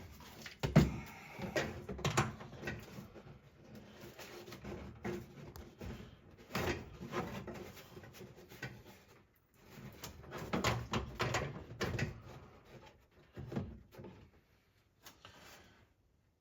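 Irregular clanks, knocks and rattles of hands and tools working on a truck, in clusters with short pauses between.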